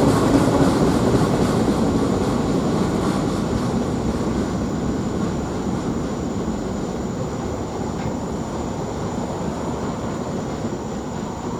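Freight train rolling past, wheels clicking over rail joints at first, then a steady rumble that slowly fades as the train moves away.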